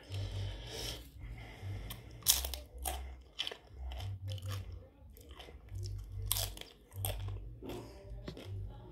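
Close-miked chewing and crunching of tortilla chips dipped in guacamole: a string of irregular crisp crunches, loudest a little over two seconds in and again about six seconds in.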